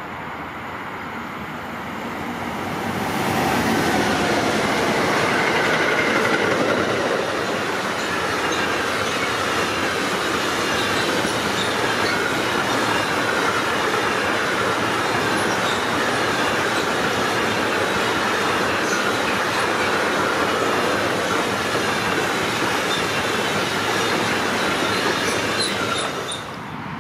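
Freight train of empty double-deck car-transport wagons passing close by. Its rolling noise swells about three seconds in and stays steady, with wheel-on-rail clatter, clicks and a light wheel squeal, then falls away suddenly near the end as the last wagon passes.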